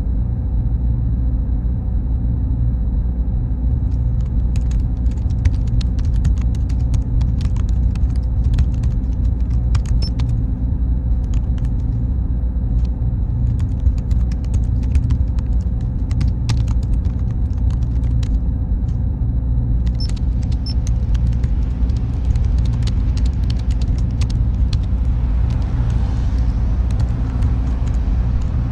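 Computer server room ambience: a steady, deep machine hum with a faint high whine that stops about twenty seconds in. Scattered light clicks run through it from about four seconds in.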